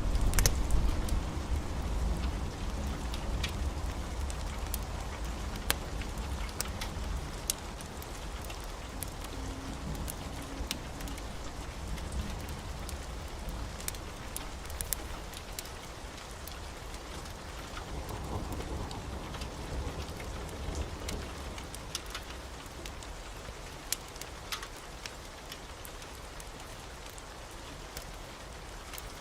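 Steady heavy rain, with a low rumble of thunder dying away over the first few seconds and fainter low swells later. Scattered sharp crackles are heard throughout.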